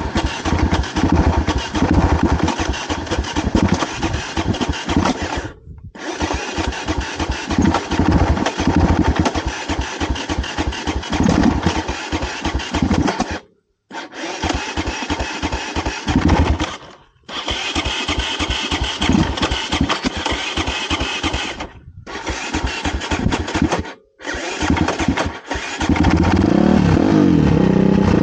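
Motorcycle engine running choppily in uneven bursts, cutting out briefly several times, then settling into a steady run for the last two seconds.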